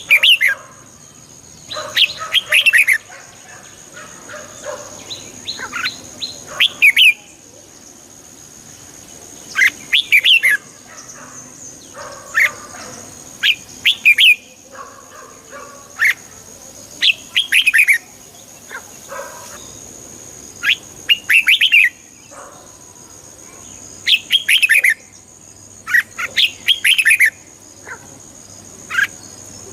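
Red-whiskered bulbul singing: short, bright phrases of a few quick chirpy notes, repeated every one to three seconds. A faint steady high-pitched tone runs underneath.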